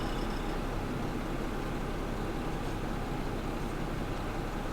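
Steady low engine hum, like a vehicle idling, unchanging throughout.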